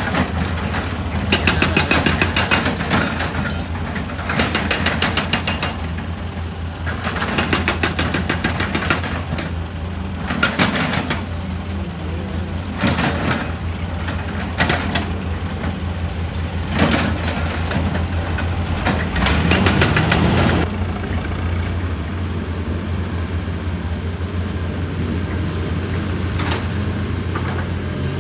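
Excavator's diesel engine running steadily, with repeated bursts of rapid hammering and crunching against rock, each lasting one to two seconds, that stop about 21 seconds in.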